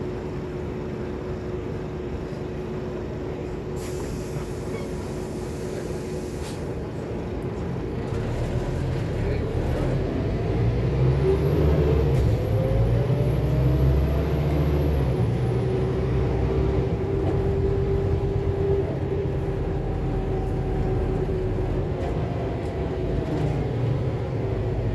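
Scania K280UB city bus heard from inside: a short hiss of air about four seconds in, then the bus pulls away, its diesel engine and drivetrain whine rising in pitch before settling to a steady run.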